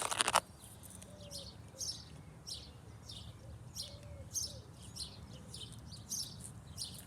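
Small birds chirping, short high calls repeating a few times a second. A brief loud rustle comes at the very start.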